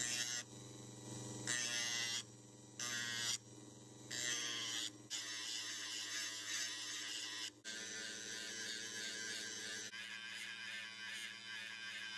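Dremel rotary tool running with a steady motor hum while its sanding bit grinds deep scratches out of a watch crystal. For the first few seconds the grinding comes and goes in short passes; after that it holds almost steady, with a brief break about seven and a half seconds in.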